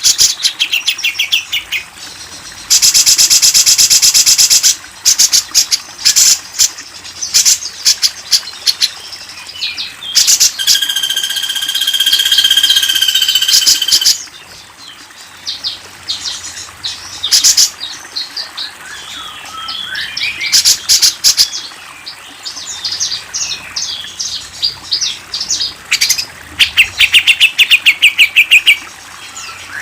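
Recorded songbird calls from a masteran training track, a mix of rapid loud chattering trills and shorter chirps. One long held whistle comes in the middle.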